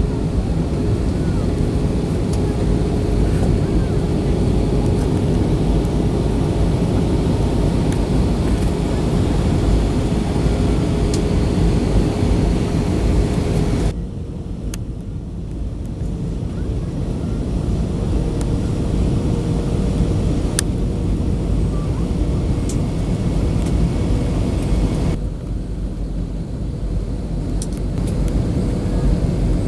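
Airliner cabin noise in flight: the steady rush of the jet engines and airflow, with a constant hum running underneath. The hissing upper part of the noise drops abruptly about halfway through and again later on.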